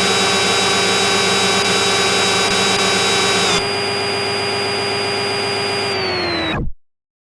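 A motor-driven machine running with a steady whine of many tones. About halfway through it drops a step in level. Near the end its pitch sinks slightly, then the sound cuts off abruptly.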